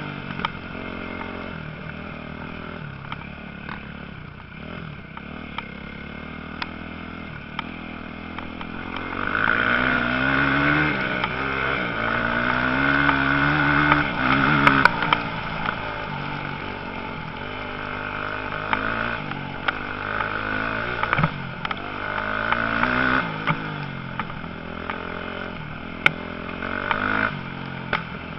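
Motocross motorcycle engines revving, their pitch rising and falling as the bikes work through the track. They grow louder about a third of the way in as a bike comes close, with occasional sharp clicks.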